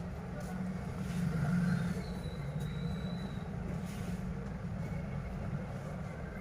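A steady low rumble, swelling slightly about a second in, with a few faint clicks.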